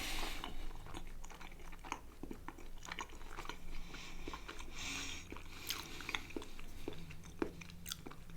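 Close-miked chewing of food, with small wet mouth clicks and bites at an uneven pace.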